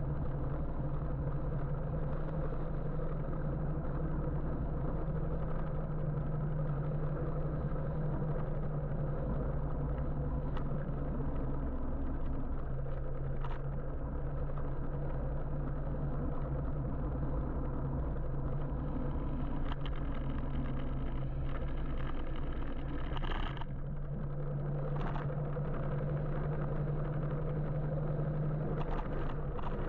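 Riding an electric motorbike through city traffic: steady road and wind noise with a low, steady hum, and a few short sharp sounds, the most prominent one about 23 seconds in.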